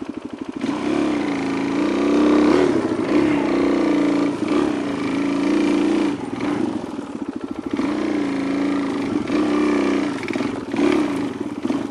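Motorcycle engine running and revving up and down repeatedly on a rough trail, picked up by a microphone tucked inside the rider's helmet.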